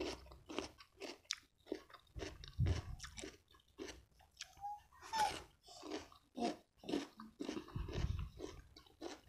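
Close-miked chewing of crispy deep-fried eel, crunching steadily at about two to three bites a second.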